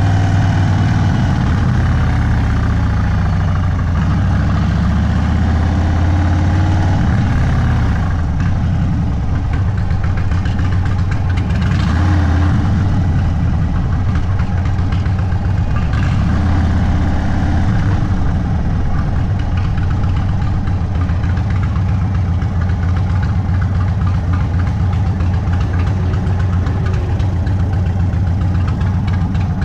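Indian Sport Chief's Thunderstroke 116 air-cooled V-twin running through a Sawicki Speed aftermarket exhaust, its pitch rising and falling a few times in the first eight seconds, then holding steady.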